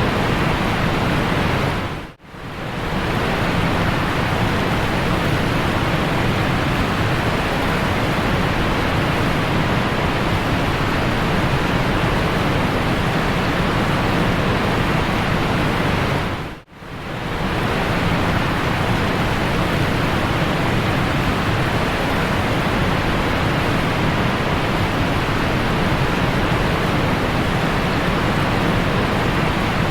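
Steady loud rushing of a waterfall, an even roar with no distinct tones. It fades out and quickly back in twice, about two seconds in and a little past the middle.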